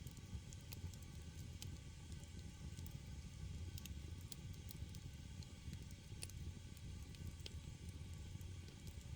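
Firewood burning in a traditional Korean agungi fire-hole, crackling with scattered sharp pops over a steady low rumble of the fire.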